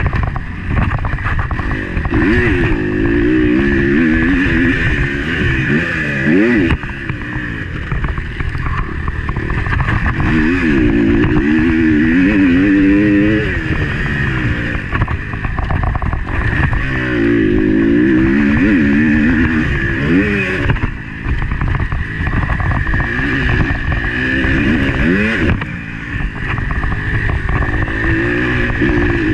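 Motocross bike engine revving hard, heard from an on-board camera: the engine note repeatedly climbs and then falls as the rider accelerates and backs off, with several short drops in level, under a steady wind rush.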